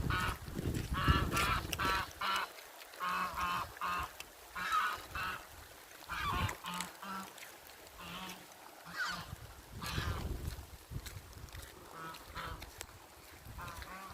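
Geese honking over and over in short, quick runs of calls, with a low rumble under the first two seconds.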